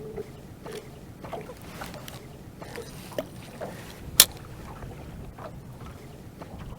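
Low steady rumble aboard a fishing boat, with scattered small clicks and squeaks and one sharp click about four seconds in.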